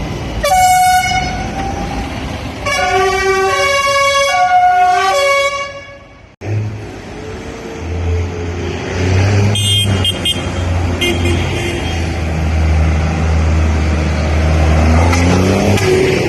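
Vehicle horn tooting: a short blast, then a longer blast that switches back and forth between two pitches. After a sudden cut, a heavy vehicle's engine runs with a low steady drone, rising in pitch near the end.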